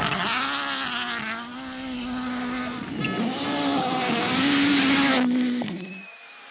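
Rally car at full speed on a stage, its engine revving hard and rising and falling in pitch through gear changes, with a rush of tyre and road noise. The sound drops away sharply near the end.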